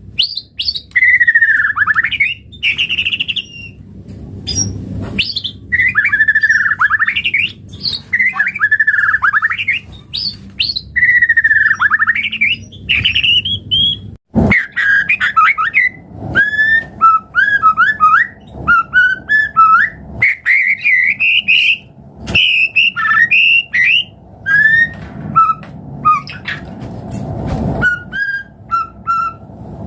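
White-rumped shama singing loudly. First come repeated swooping whistled phrases, each about two seconds apart; from about halfway, after a sharp click, it switches to a faster run of varied short notes with high twittering.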